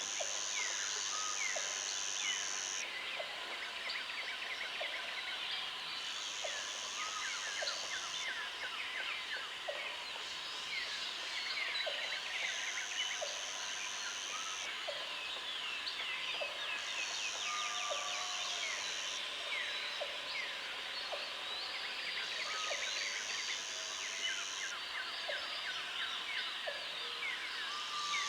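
Countryside ambience of many birds chirping and singing, with a high buzzing trill that lasts about two seconds and comes back every five or six seconds.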